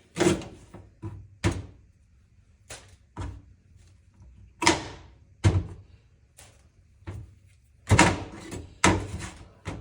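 Kitchen knife cutting through leeks and knocking down onto a cutting board: a dozen or so separate thunks at an uneven pace.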